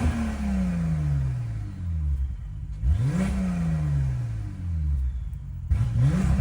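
2018 Porsche 911 Carrera T's 3.0-litre twin-turbo flat-six, through a GMG aftermarket exhaust in Sport Plus mode, revved in quick throttle blips: the revs fall away at the start, climb sharply and drop back about three seconds in, and climb again near the end.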